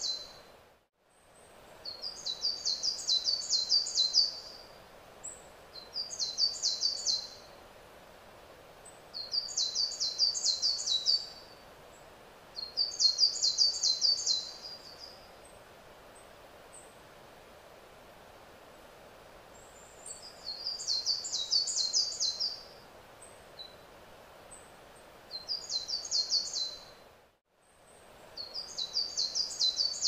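A songbird singing short phrases of quick, high repeated notes, each phrase one to two seconds long and repeated every few seconds, about seven times with a longer pause midway. A steady faint outdoor background noise sits beneath the song.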